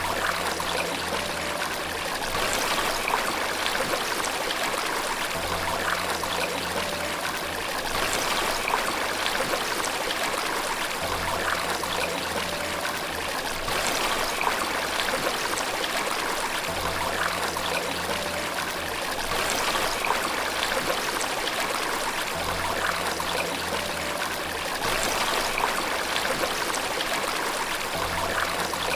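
Flowing water rushing steadily, as from a waterfall or stream. Under it, soft low notes of relaxation music sound about every three seconds.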